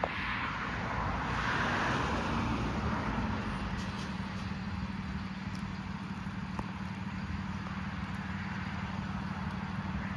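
Road traffic: a vehicle passes with a swell of tyre and road noise over the first few seconds, over a steady low engine hum.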